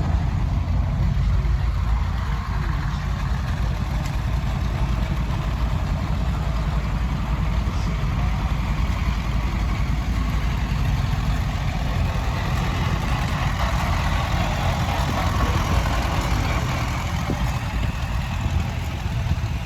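Farm tractor engine running steadily, the sound weighted heavily to the low end.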